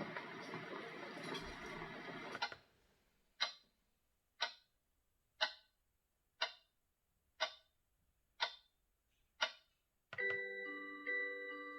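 Gladle white noise machine's speaker switching through its sound presets: a steady noise sound that cuts off, then a clock-ticking sound at about one tick a second, then the first notes of a chiming lullaby-like tune near the end.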